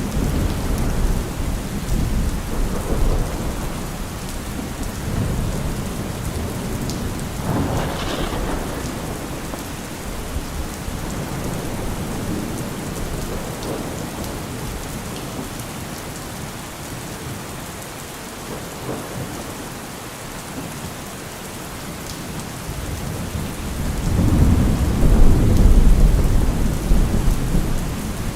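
Steady rain falling in a thunderstorm. A short thunder crack comes about eight seconds in, and a long low rumble of thunder near the end is the loudest part.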